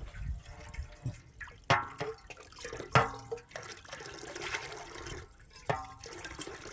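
Water splashing and trickling, with three sharp knocks that each ring briefly.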